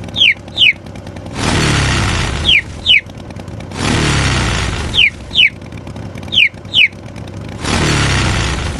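Cartoon chick peeping 'pío' in quick pairs of short, high, falling chirps, four pairs in all. Three harsh, rumbling, engine-like bursts of about a second each come in between them.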